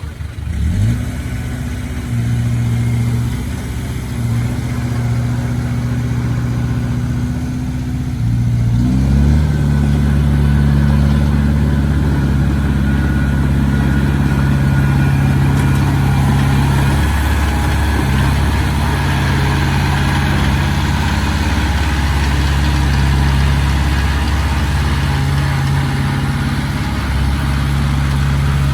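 Heavy diesel engine of earthmoving machinery speeding up just after the start and again about nine seconds in, then running hard and steady.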